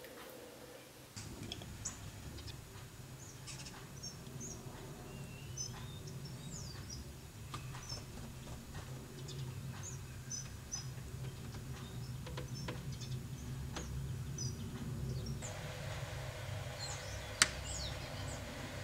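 Small birds chirping and twittering over a steady low hum, with scattered sharp taps; one tap about three quarters of the way through is much louder than the rest.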